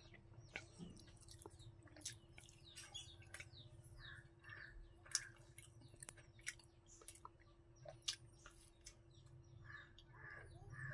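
Faint close-up eating sounds: irregular wet mouth clicks and smacks of chewing a mouthful eaten by hand, over a faint steady hum.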